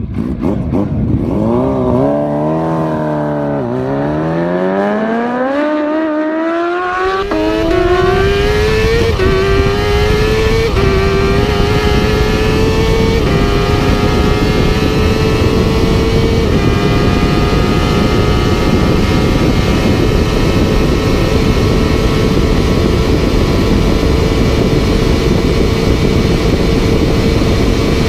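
Superbike engine at full throttle, its pitch climbing hard through the gears with a sharp dip at an early upshift and quick small steps at later ones. It then holds a steady high pitch at sustained high speed.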